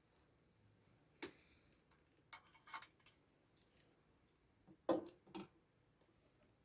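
Scattered small clicks and clinks of hard objects being handled, with a brief clatter about a second and a half later and the loudest clinks about five seconds in.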